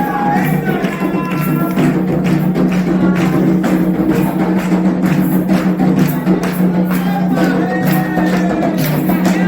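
Candomblé sacred music: drums and other percussion struck in a steady rhythm, with voices singing over them.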